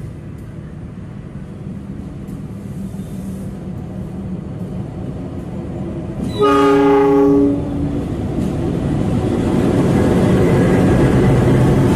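A passenger train's locomotive arriving at a station: a low rumble that grows louder, one horn blast of about a second just past halfway, then the louder running of the engine and wheels as the train draws in.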